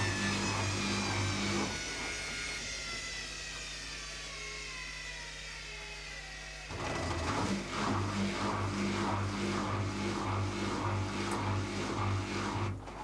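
Zanussi ZKN7120L washing machine at the end of its spin: the drum winds down with a slowly falling motor whine, while the drain pump hums, stops about two seconds in, then kicks back in about seven seconds in with an uneven pulsing hum and cuts off just before the end.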